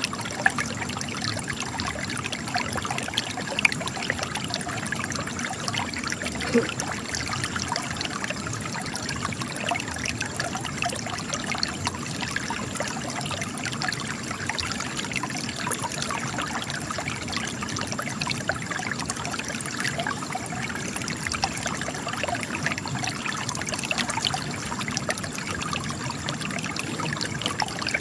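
Spring water trickling and splashing steadily over rocks.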